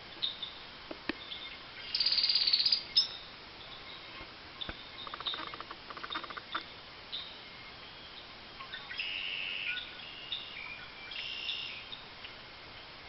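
Eastern bluebirds calling: scattered short chirps and buzzy, rapidly pulsed trills, the loudest a buzzy burst about two seconds in, with more chirps between about nine and twelve seconds.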